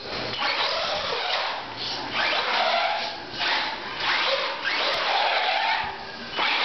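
Exceed RC truck's brushless electric motor running in repeated throttle bursts of about a second each, its whine rising and falling in pitch with each burst.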